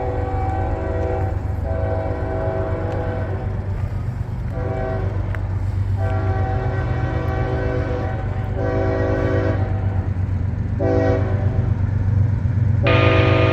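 Diesel freight locomotive's multi-chime air horn blowing a long, long, short, long sequence, then a short blast and a louder long blast near the end. Under it runs a steady low rumble of the approaching train that grows louder.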